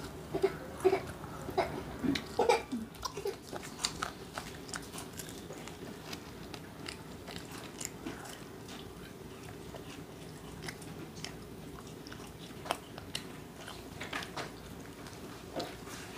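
Close-up biting and chewing of crisp fried chicken, with crunchy bites and mouth sounds. They come thickly in the first few seconds, then more sparsely.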